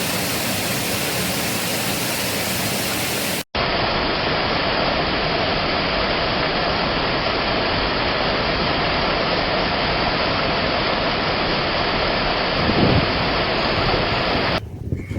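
Steady rush of flowing water, with an abrupt break about three and a half seconds in where a second stretch of similar rushing water takes over; the sound drops away near the end.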